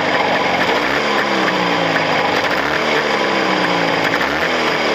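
Motorcycle engine with newly fitted Chinese cylinders being run in, revved up and down several times in quick succession. The owner feels the piston rings are still tight in the iron cylinder liners.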